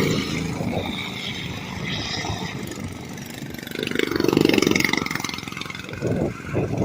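Small-engine racing machines running laps, one passing close about four seconds in, its engine note swelling loud and then fading.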